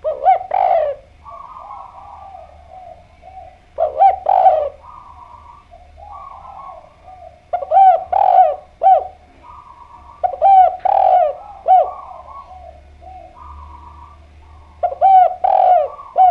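Spotted dove (derkuku) cooing: five loud phrases of several notes each, repeating about every three to four seconds, with softer cooing in between.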